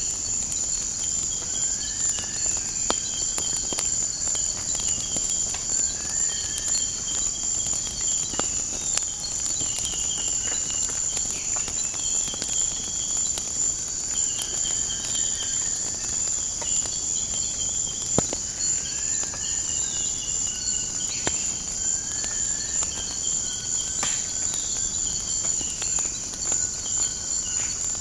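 Steady high-pitched insect chorus, with short bird calls repeating every second or two and scattered sharp crackles and pops of a wood fire.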